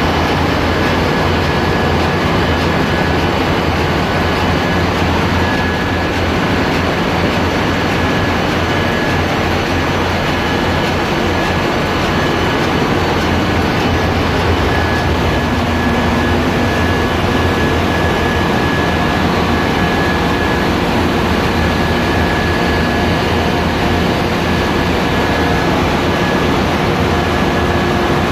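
Loud, steady machinery noise of a bulk carrier's engine room, with marine diesel engines running, and a thin high whine held steady over the din.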